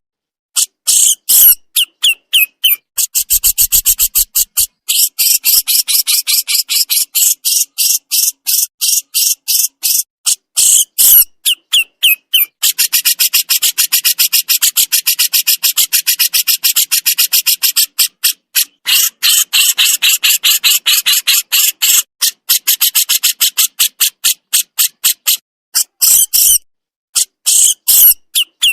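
A jenggot jawa songbird giving its full besetan call: a fast, continuous, harsh chatter of sharp high notes, many a second, in long runs with a few short pauses.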